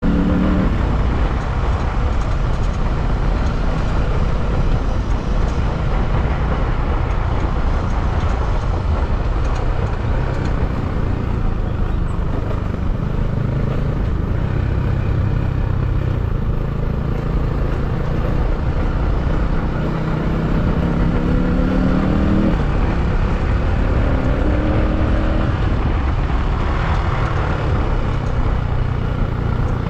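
Motorcycle on the move: a heavy, steady rumble of wind on the microphone with the engine note underneath, which climbs in short rising steps about twenty seconds in as the rider accelerates through the gears.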